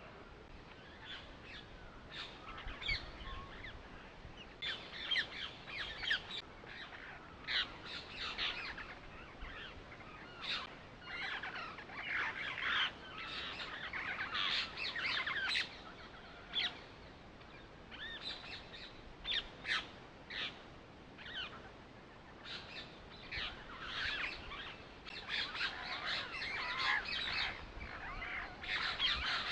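Birds chirping and calling, many short calls one after another.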